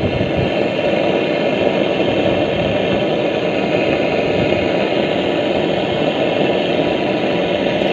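A motor or engine running steadily, an even drone with no starts or stops.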